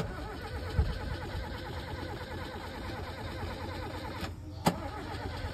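Engine of a 50-year-old car running while it sits stuck in a muddy puddle, with a short thump about a second in and a sharp click near the end.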